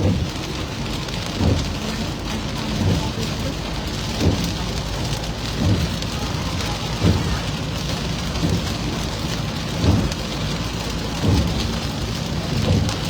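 Rain on a moving car, a steady hiss, with a soft low thump repeating about every one and a half seconds.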